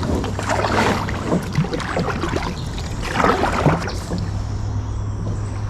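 Kayak paddle strokes dipping and splashing in lake water, several strokes over a few seconds, over a steady low hum.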